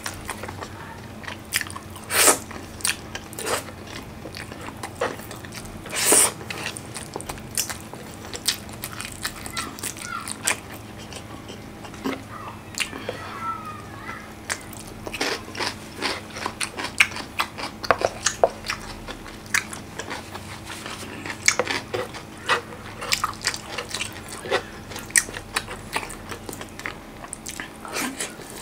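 Close-miked eating: biting and chewing of saucy chicken with crisp bites of raw cucumber, full of sharp wet mouth clicks at an irregular pace. The loudest bites come about two and six seconds in.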